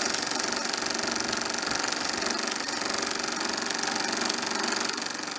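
Harley-Davidson V-twin motorcycle engine running steadily, faded in at the start and fading out at the end.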